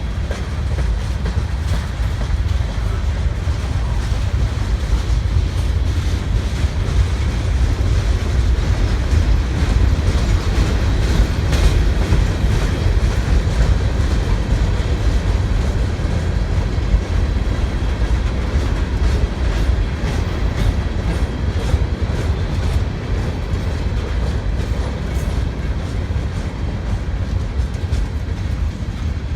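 Freight train cars rolling past, with a steady low rumble of wheels on rail and a continual clickety-clack of wheels over the rail joints.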